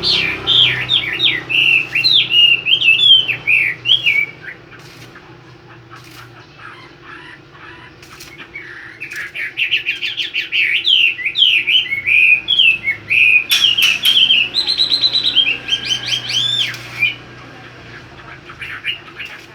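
A caged songbird singing in two bouts of rapid, varied chirps and twitters. The first bout ends about four seconds in, and the second starts after a pause of about four seconds and runs for about eight more.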